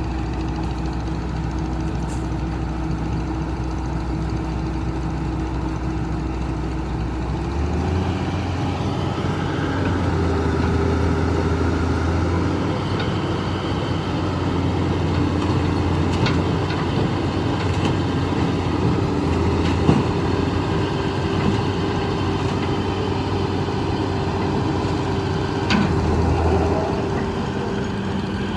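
Heavy diesel engine idling steadily, then revving up about a quarter of the way in and running harder under load. A few sharp knocks sound over the engine, the loudest about two-thirds of the way through.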